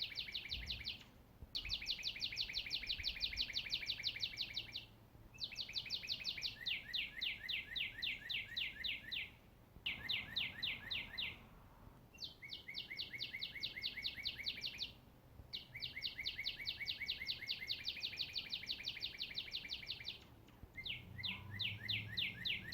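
A songbird singing long rapid trills of short down-sweeping chirps, about ten a second. Each trill lasts a few seconds, with brief pauses between them.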